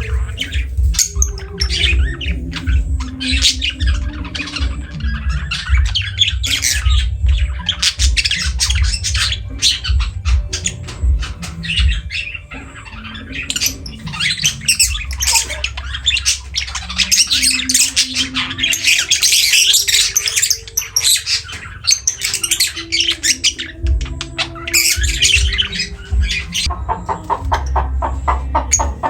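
Lovebirds chattering: a dense run of rapid, high-pitched chirps and squawks.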